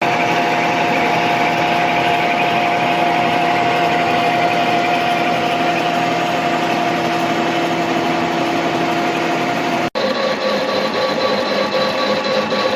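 Universal milling machine running and milling the sides of a workpiece: a steady machine whine over the noise of the cut. About ten seconds in it breaks off for an instant and comes back at a different pitch.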